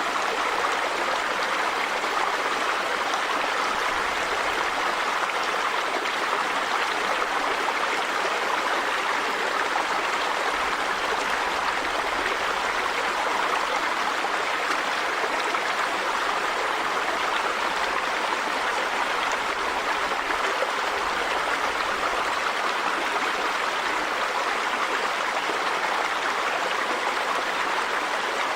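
River water running over rocks, a steady rushing and babbling.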